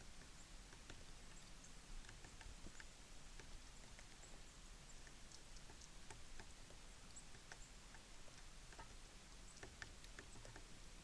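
Small birds at a feeder: faint, scattered taps and clicks with a few brief high chirps.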